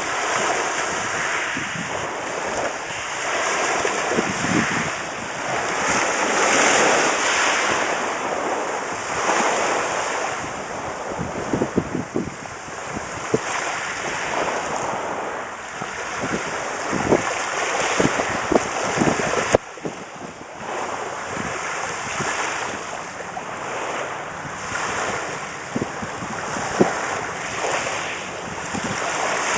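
Sea waves washing on the shore, swelling and fading every few seconds, with wind buffeting the microphone.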